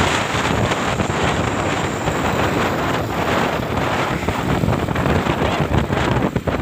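Steady, loud rushing noise with wind buffeting the microphone.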